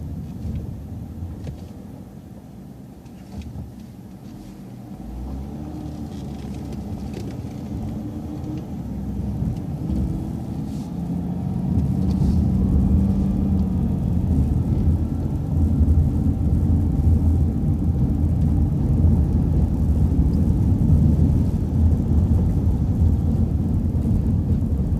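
City transit bus engine heard from inside the bus, quiet at first, then revving up with a rising pitch as the bus pulls away and gathers speed, settling into a steady loud low rumble.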